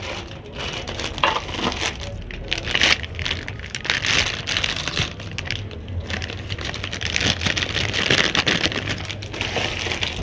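Plastic packaging crinkling and rustling as a new outer tie rod end is handled and unwrapped, in irregular crackling spurts.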